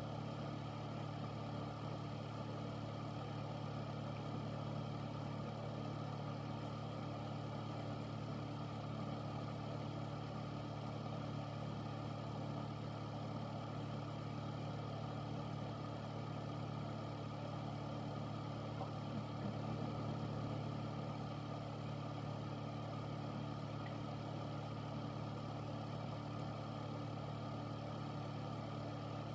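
Air filter unit running steadily: a constant fan whoosh over a low motor hum with several steady tones.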